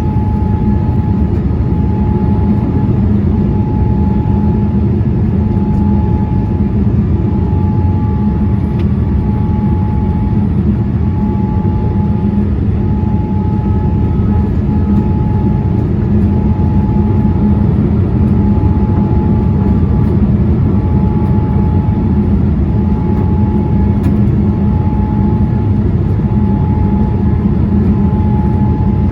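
Jet airliner cabin noise in flight: a steady deep rumble of engines and airflow, with a thin tone that pulses on and off about every second and a half.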